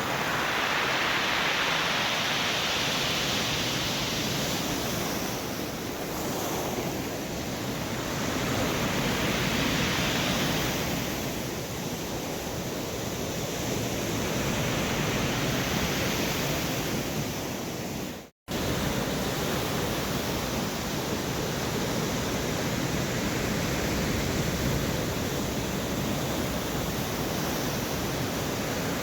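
Storm surf breaking and washing on the shore in strong wind, a steady rush that swells and eases every few seconds. It drops out for a moment about two thirds of the way through.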